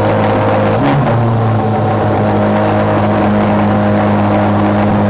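Chevrolet Corvette's gas engine revved and held at high revs, giving a loud, steady engine note with a brief wobble in pitch about a second in.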